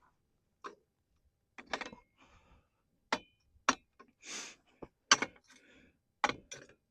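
Irregular light clicks and small metallic clinks, about a dozen short knocks spread over several seconds, a few with a brief ring.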